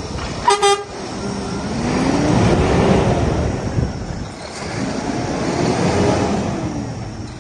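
Scania R480 truck's horn gives two quick toots, then its engine is revved up and let fall back twice.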